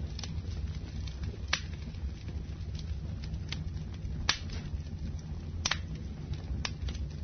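Irregular sharp crackles and pops, a loud one every second or so among fainter ones, over a low steady rumble.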